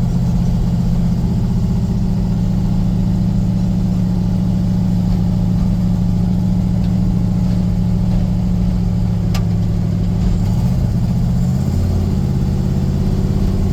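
A vehicle's engine running steadily at low revs, its note shifting about eleven seconds in. A single sharp click sounds near the middle.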